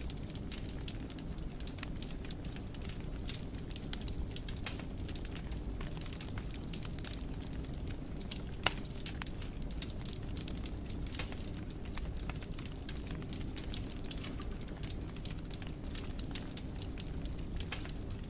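Fire burning in a fireplace, crackling with many small quick pops and snaps over a steady low rumble of flames, with one sharper pop about halfway through.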